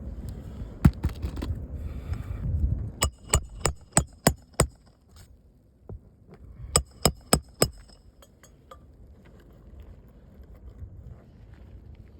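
Hammer striking a roof snake nailing tool to drive roofing nails under a shingle: a quick run of six ringing metal strikes, then after a pause four more. The nails are going in easily. Scraping and rustling of handling come before the strikes.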